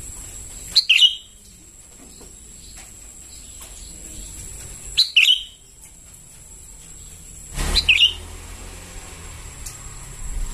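Juvenile sooty-headed bulbul (kutilang) calling: three short, sharp chirping calls spaced a few seconds apart.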